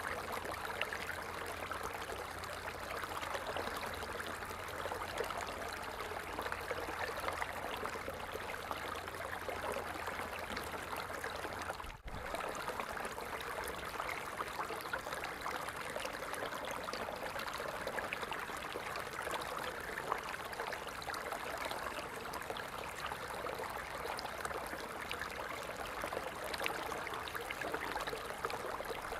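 Falling water running steadily, a continuous splashing rush like a small stream or cascade. About twelve seconds in it drops out for a moment, and a low rumble underneath is gone afterwards.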